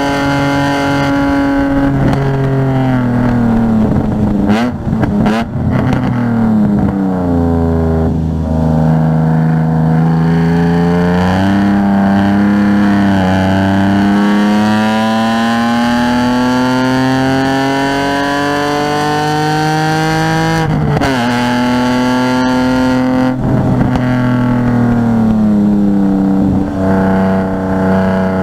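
Race-track car engine under hard driving. Its pitch climbs steadily through a long pull in the middle, with gear changes and downshifts for braking about five seconds in and again past twenty seconds.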